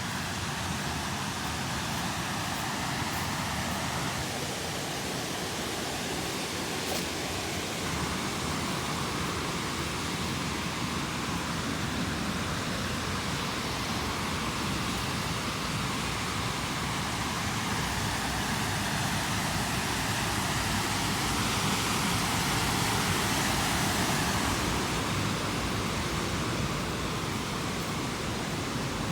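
Steady rushing outdoor noise with no distinct events, swelling a little about twenty seconds in and easing back near the end.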